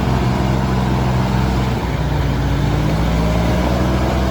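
Heavy diesel engine of a construction machine running steadily, its pitch shifting briefly just before halfway through.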